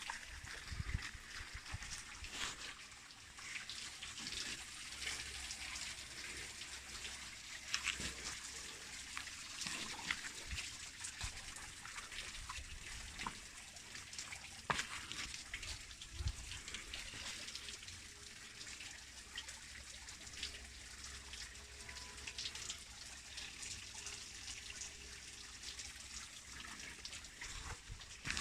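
Small garden waterfall pouring into a pond: a steady trickling and splashing of falling water.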